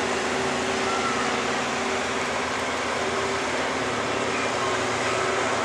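Gas-engine 4x4 pickup truck held at high revs under full load while pulling a weight-transfer sled; a steady, unbroken engine noise.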